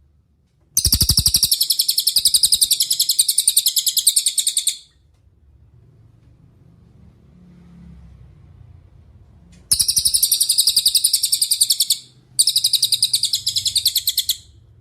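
Cililin song: three long, rapid, high-pitched trills, the first about four seconds long and the next two shorter with a brief break between them, separated by pauses.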